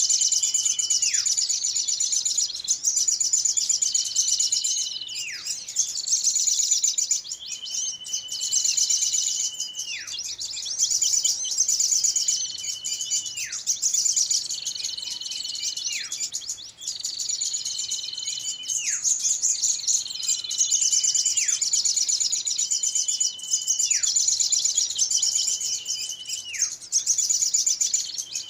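Bird-lure recording of small songbirds' calls: a dense, high chittering trill runs throughout, while a call that holds a note and then slides steeply down in pitch repeats every few seconds, in a looped pattern.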